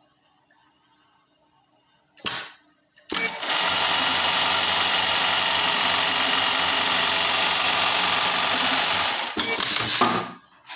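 Industrial buttonhole sewing machine for jeans stitching a buttonhole. After a short clack about two seconds in, it runs at a steady fast stitch for about six seconds, then stops with a brief clatter.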